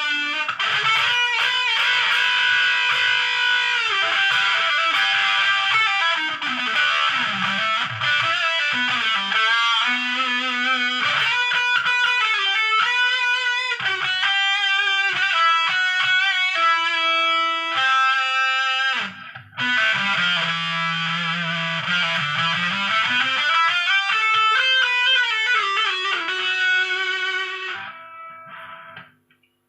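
Electric guitar played through an MXR Sub Machine fuzz pedal: sustained, distorted lead notes and phrases with pitch bends. The playing breaks off briefly about two-thirds of the way through, then resumes and fades out near the end.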